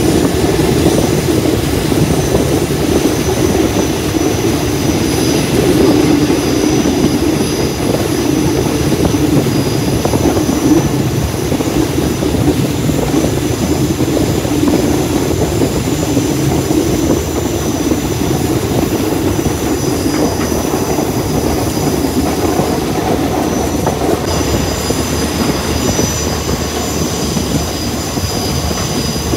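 Passenger train running along the track, heard from on board: a steady rumble of wheels and carriage. Faint high-pitched tones come in during the last few seconds.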